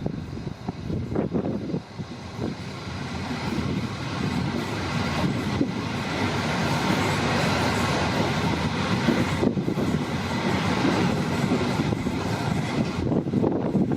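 Passenger train pulling away and running on the rails: a low rolling rumble with a few sharp knocks in the first couple of seconds, then a rushing noise that grows louder as it gathers speed and holds steady.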